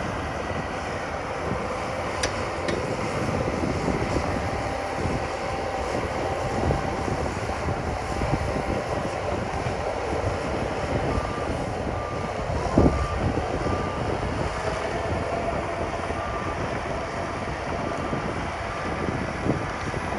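Heavy earthmoving machines, a bulldozer and dump trucks, with their diesel engines running steadily. In the second half a reversing alarm beeps at an even pace, and about thirteen seconds in there is one sudden loud knock.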